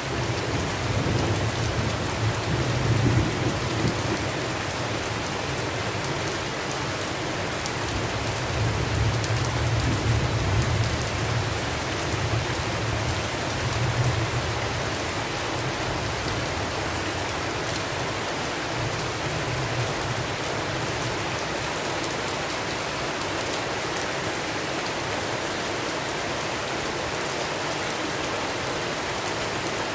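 Steady rain falling, with low thunder rumbling through the first half: it swells about three seconds in and again around ten seconds, and dies away by about fifteen seconds.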